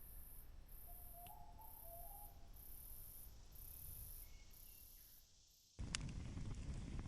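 Insect, cricket-like, chirping in faint high-pitched pulses a little over one a second, with a few faint bird chirps about a second in. Near the end the chirping stops abruptly and gives way to a louder low rumble with a few sharp clicks.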